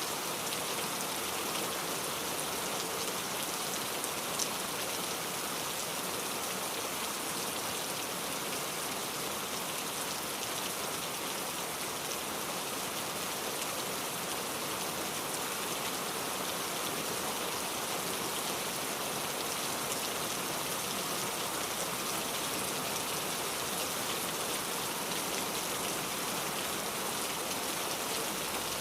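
Steady rain falling, a dense even hiss of drops pattering on a surface, with one slightly louder drop hit about four and a half seconds in.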